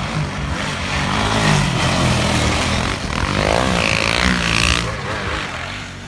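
Engine of a snow vehicle running hard and passing close, its pitch rising and falling in the middle, then fading near the end.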